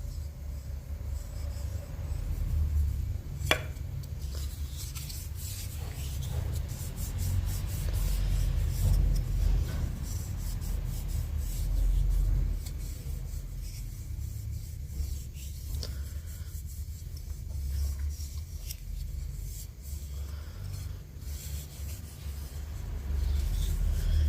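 A hand tool rubbing and scraping on mulberry wood, with a low rumble throughout and a sharp click about three and a half seconds in.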